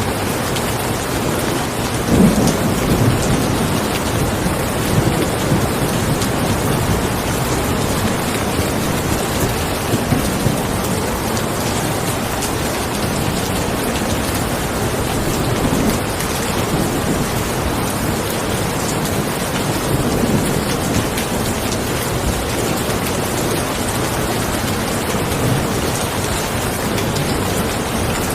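Steady rain with low rumbles rising and fading over it, the loudest about two seconds in.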